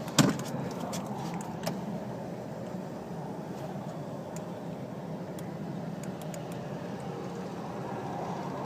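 A single sharp thump from the 2008 Audi TT's body just after the start, then a faint click about a second and a half in, over a steady low hum.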